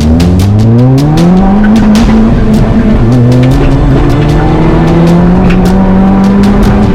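Mitsubishi Colt CZT rally car's turbocharged four-cylinder engine accelerating hard, its pitch climbing, then dropping with an upshift about two and a half seconds in and climbing again more slowly.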